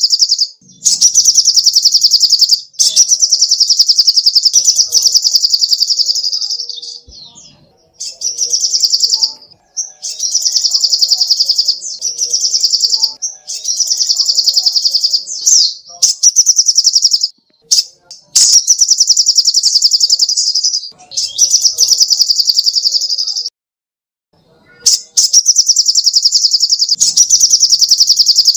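Sogok ontong songbird singing a string of high, very fast buzzing trills, phrases of a couple of seconds each separated by brief pauses.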